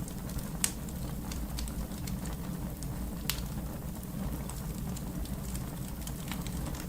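Fire crackling: scattered small ticks and two sharper pops, about half a second in and a little past three seconds in, over a steady low rumble.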